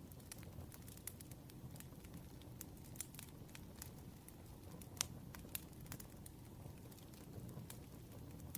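Wood fire crackling: irregular sharp pops over a low steady rumble, with one louder pop about five seconds in.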